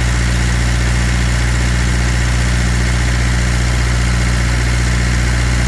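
Water truck's engine running at a steady idle, a deep even hum that does not change.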